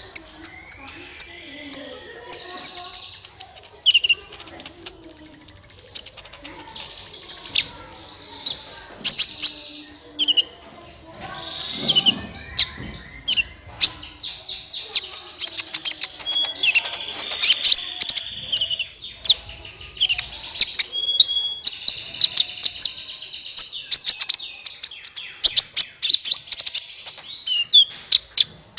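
Sunbird of the kind Indonesian keepers call 'kolibri ninja', calling as a lure call: rapid, sharp, high chirps and ticks with short trills, in dense bursts with brief gaps.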